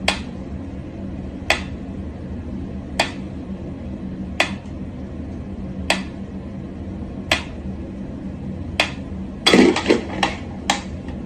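Single sharp clinks on a hard surface, evenly spaced about every second and a half, then a quick run of several clinks near the end, over a steady low hum.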